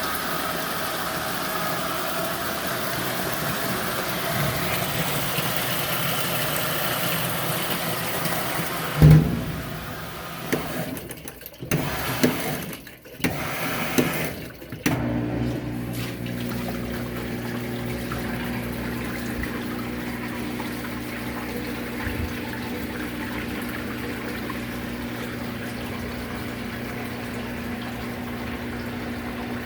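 Washing machine: water rushes in with a steady hiss, then about nine seconds in there is a loud thump followed by a few seconds of irregular knocks. From about fifteen seconds a motor runs with a steady hum.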